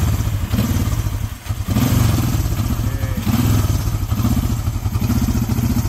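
1973 Honda CB350's air-cooled parallel-twin engine running just after a cold start without choke. The rapid firing pulses sag briefly about a second and a half in, then pick back up and run steadily.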